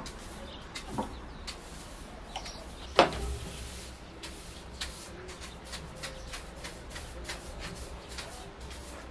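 Small clicks and knocks of household objects being handled, with one much louder knock about three seconds in.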